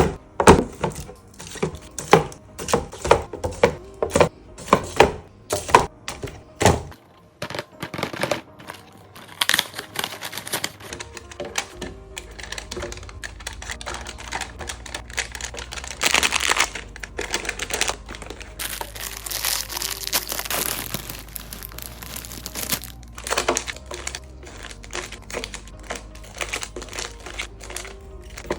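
Plastic snack wrappers and containers being handled: a quick run of sharp clicks and knocks in the first seven seconds or so, then wrappers crinkling in several longer stretches.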